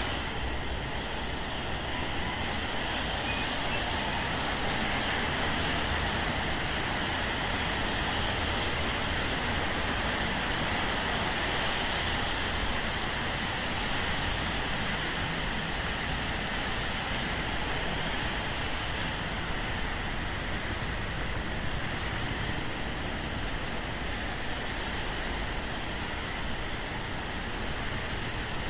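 Steady rain mixed with the hiss of traffic on wet city streets.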